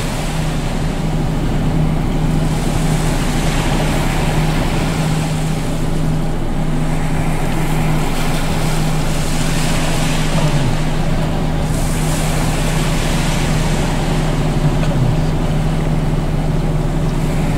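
Steady low engine-like hum over a constant wash of noise, unchanging throughout.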